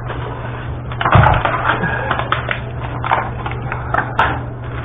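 Handling noises: a thump about a second in, then a run of short scrapes and rustles, over a steady low hum.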